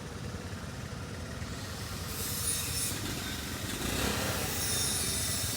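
Steady low background rumble with a faint hum; a high hiss joins it about two seconds in.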